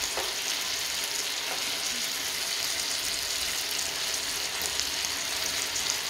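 Chicken wings frying in hot oil in a nonstick pan: a steady sizzle, while plastic tongs move and turn the wings in the pan.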